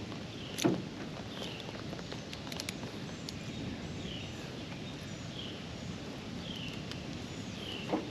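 Steady outdoor hiss with a bird repeating a short falling call about once a second. A knock sounds about half a second in, and a smaller one near the end.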